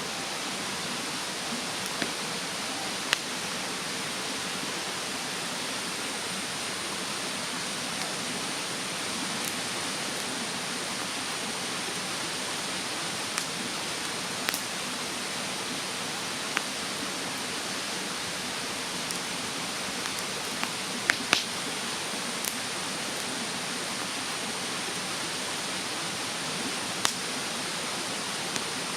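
Wood bonfire in a fire stand crackling, with about a dozen sharp pops at irregular intervals, over the steady rush of a mountain stream.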